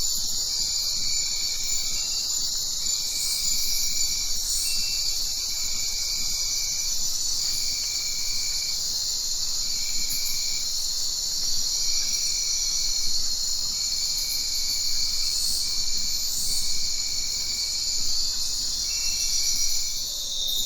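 Tropical forest insect chorus: a steady, high, continuous shrilling, with a lower-pitched call repeating in short pulses about once a second.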